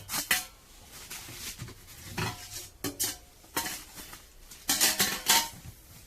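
Metal chimney pipe sections for a tent stove clanking and clinking against each other as they are handled: a string of separate knocks, each with a short metallic ring, the loudest about five seconds in.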